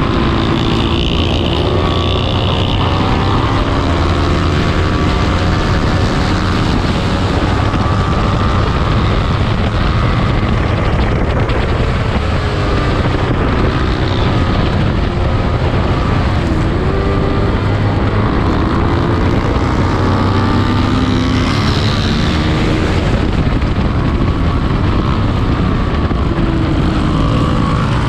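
Small-displacement racing motorcycle engine at high revs, its pitch climbing and dropping again and again through gear changes, under a steady rush of wind noise.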